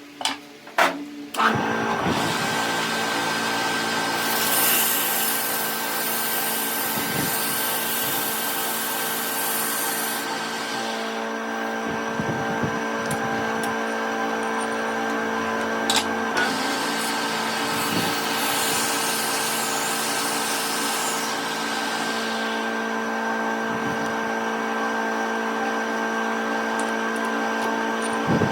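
A few sharp clicks, then an electric workshop machine motor starts and runs with a steady hum. Louder hissing noise rises over it twice, about 4 to 11 seconds in and again about 19 to 22 seconds in.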